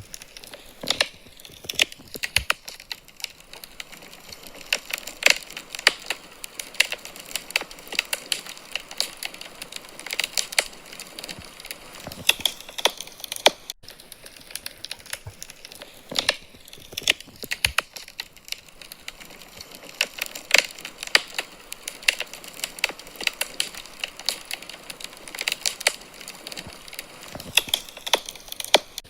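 Wood fire in a fireplace crackling: irregular sharp pops and snaps, several a second at times, over a faint steady hiss.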